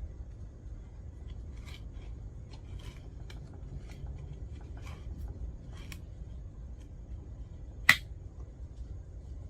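Light clicks and taps of metal parts and tools being handled while a chainsaw is put back together, a few faint ones spread through, then one sharp, loud click about eight seconds in, over a low steady background rumble.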